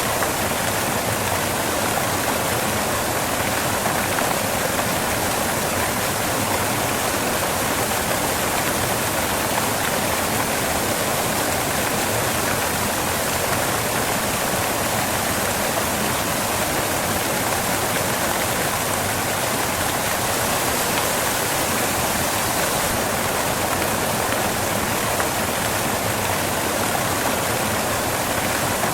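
Waterfall crashing off rocks: a steady, unbroken rush of falling water.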